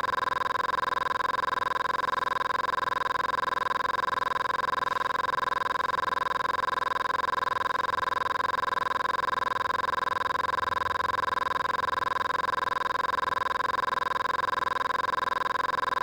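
A steady electronic tone of several pitches held together without change, sounding like a telephone dial tone.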